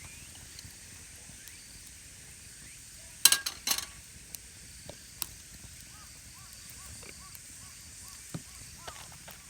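Outdoor ambience: a steady high hiss, two sharp clacks a little over three seconds in, and a run of short repeated chirps in the second half.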